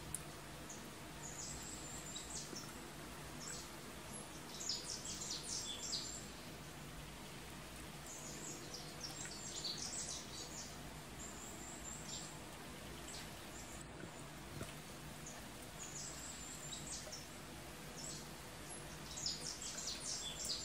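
Birds chirping in short, high-pitched phrases that repeat every few seconds, over a steady low hum.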